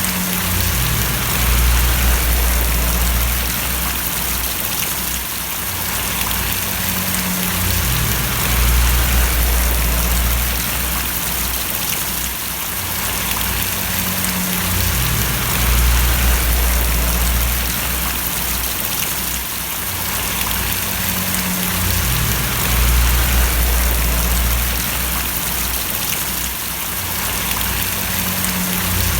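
Steady rain falling, a dense even hiss of drops, over a low rumble that swells and changes about every seven seconds.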